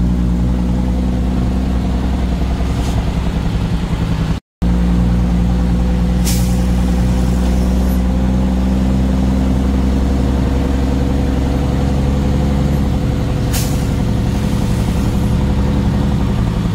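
A truck's engine runs steadily at an even drone, with three short hisses along the way. The sound drops out for a split second about four seconds in.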